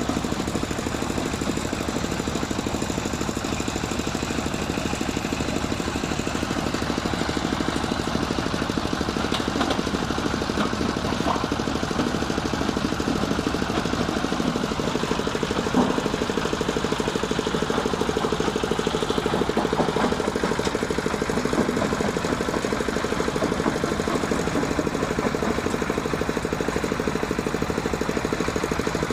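Changchai L24 diesel engine running steadily under load, driving a stone crusher, with a few sharp knocks through the middle.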